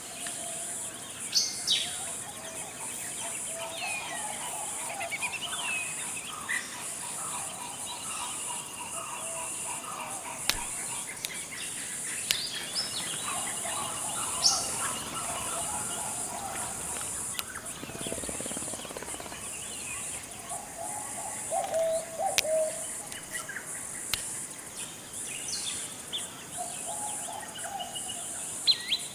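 Forest ambience of many birds calling and chirping, some in short whistled phrases, over a steady high-pitched buzz of insects.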